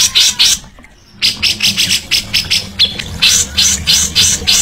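Songbird calling in a rapid series of short, harsh, scratchy notes, about five a second, breaking off for half a second early in the run and then going on.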